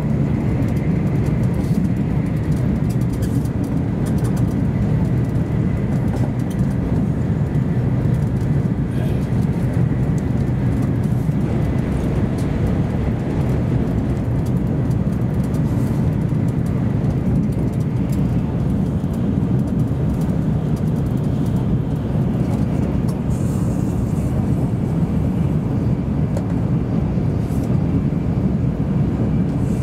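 Cabin noise inside an N700 series Shinkansen train at speed: a steady deep rumble of wheels, running gear and air, with a faint high whine in the first nine seconds or so.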